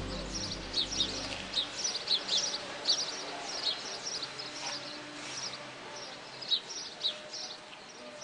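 Small birds chirping: short, high, falling chirps in quick runs, with steady low music tones fading out over the first two seconds.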